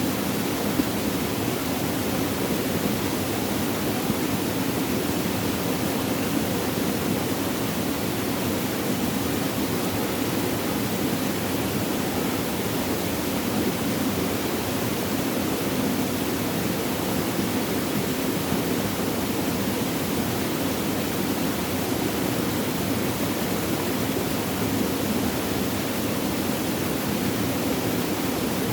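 Flowing water, a steady unbroken rush with no separate splashes or drops.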